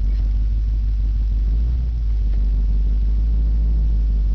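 Chevrolet Caprice 9C1's 350 V8 on straight headers running at low speed while driving, a steady low exhaust rumble.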